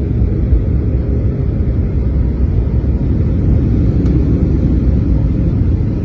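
Steady low rumble inside an airliner cabin: engine and airflow noise, with a faint click about four seconds in.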